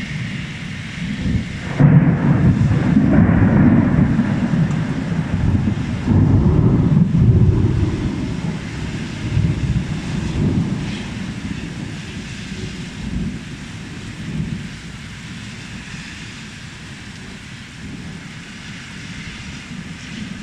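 Rolling thunder: a loud low rumble breaks out about two seconds in, swells again a few seconds later, then slowly dies away, over the steady hiss of heavy rain.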